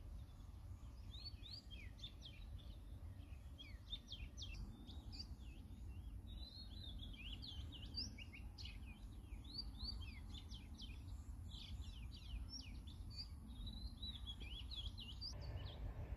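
Small birds chirping and twittering in many quick, short calls, over a low rumble of wind and a faint steady high tone. The birdsong and the tone cut off abruptly near the end.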